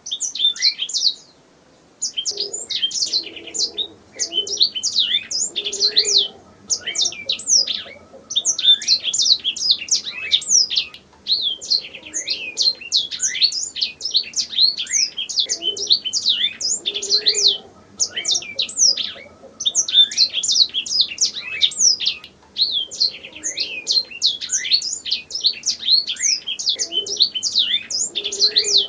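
Domestic canary singing a long, fast song of chirps and rolling trills, high-pitched, in phrases separated by brief pauses of under a second.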